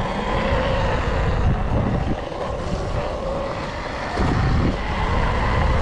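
Wind rushing over the camera microphone while riding a motorbike, with a faint steady motor tone under it, getting louder about four seconds in.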